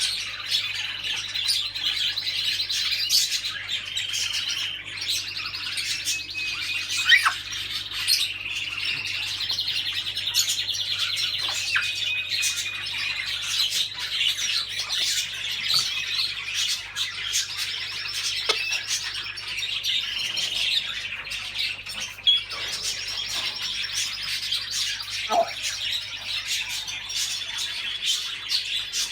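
A dense, unbroken chorus of many caged small birds chirping and trilling together, with a few short squawks, one about a third of the way in and one near the end.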